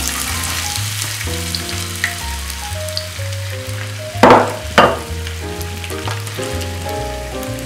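Diced potatoes sizzling as they hit hot oil and shallow-fry in a frying pan, with two brief, louder noises a little over four seconds in. Background music plays throughout.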